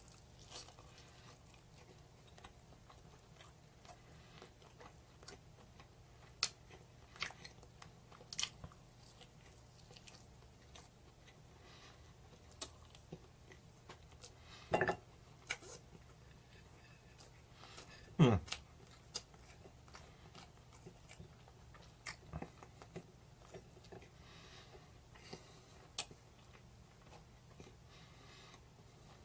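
A person chewing and biting roast chicken thigh meat off the bone. It is faint chewing broken by scattered short smacks and clicks, two louder ones a little past halfway.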